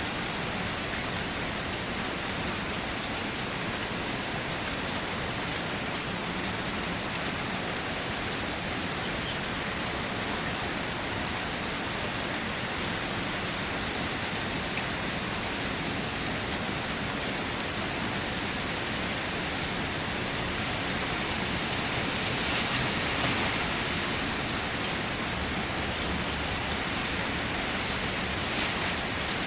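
Steady rain falling and hitting surfaces, a little heavier about three quarters of the way through.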